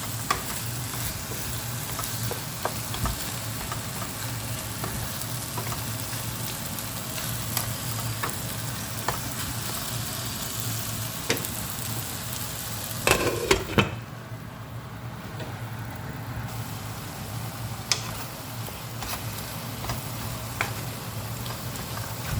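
Shrimp sizzling in a frying pan while being stirred, with scattered clicks of the utensil against the pan and a cluster of louder knocks about thirteen seconds in. The sizzle briefly quietens after the knocks. A low steady hum runs underneath.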